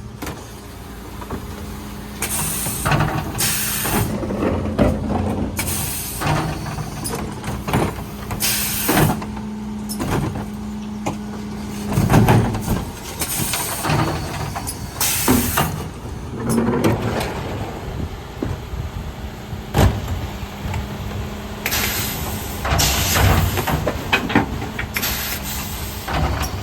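Mercedes Econic refuse truck working a bin collection: a steady hum that stops about halfway, about a dozen short hisses of air, and a couple of loud bangs from bins being emptied.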